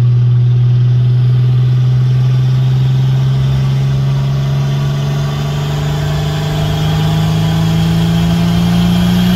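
Turbocharged Nissan L28 straight-six in a Skyline, heard from inside the cabin, its pitch rising slowly and steadily as the car accelerates.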